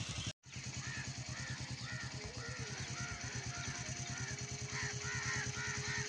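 A bird calling over and over in short arched notes, about two a second, over the steady low putter of an idling engine. The sound drops out completely for a moment just after the start.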